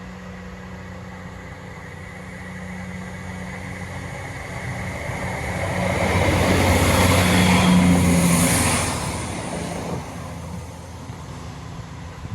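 Diesel multiple unit on a Matlock to Nottingham service pulling away from a station stop and passing close by: its engine and wheel noise build, peak as a loud rush about six to nine seconds in, then fade as it moves off.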